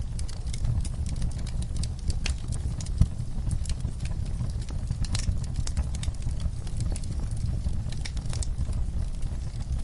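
Fireplace crackling with many small sharp pops over a steady low rumble, with soft rain in the background; one louder pop about three seconds in.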